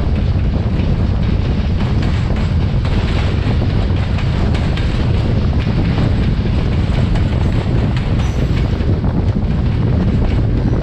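Steady wind noise on the microphone of a moving car, mixed with a passenger train's ICF coaches running along the track alongside, with light clicks of the wheels on the rails.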